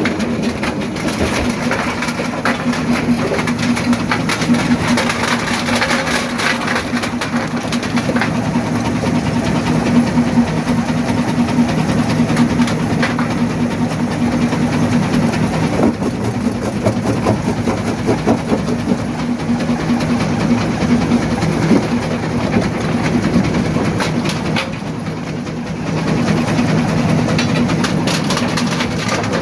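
Primary jaw crusher working, with the steady hum of its drive under a dense, irregular clatter and knocking of rock being broken. The noise eases briefly about 25 seconds in, then picks up again.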